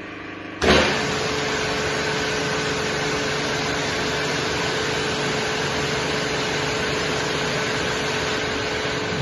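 High-pressure washer: the motor hums quietly, then about half a second in the spray starts with a sudden loud burst. It then runs steadily as a hissing jet with a constant pump whine.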